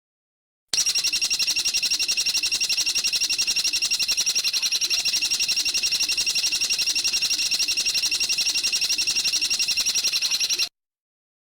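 Recorded bird call: a rapid, very even trill of about ten notes a second, high-pitched, starting and cutting off abruptly as an edited track.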